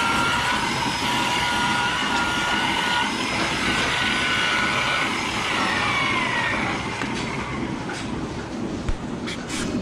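A machine running with a steady rumble and a whine of several high tones that waver slightly, fading out about seven seconds in.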